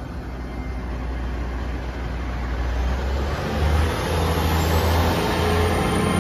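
A Great Western Railway Class 802 bi-mode train departing on its underfloor diesel engines. The engine note builds in loudness and steps up about three and a half seconds in as the train accelerates, with a high whine rising near the end.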